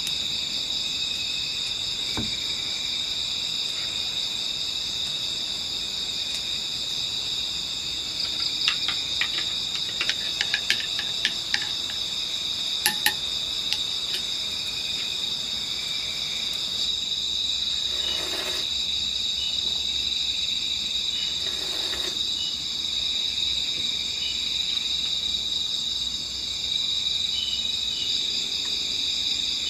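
Night chorus of crickets and other insects, a steady high-pitched shrilling. About a third of the way in there is a scatter of small sharp clicks and clinks.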